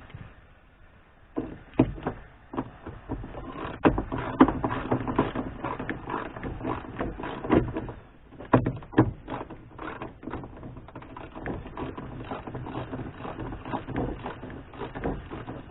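Car interior roof trim being worked loose by hand: a busy run of plastic clicks, knocks and rustling, starting about a second in and busiest in the middle.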